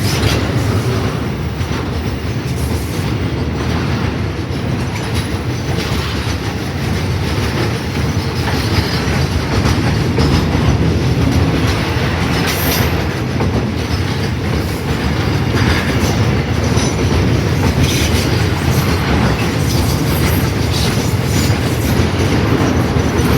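A train running on the rails: a steady low rumble with scattered clicks and knocks from the wheels and rail joints.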